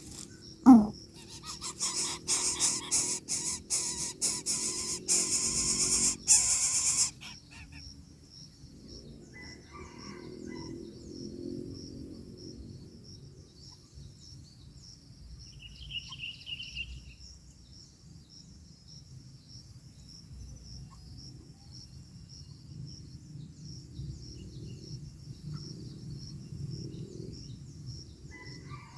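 Insects trilling steadily at a high pitch, with a loud run of rustling and crackling at the coucal nest from about two to seven seconds in, after a brief sweeping sound near the start. A few faint chirps follow later.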